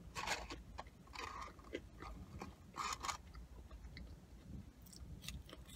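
Close-up chewing and crunching of crispy McDonald's French fries, coming in a few short bursts, over a steady low rumble.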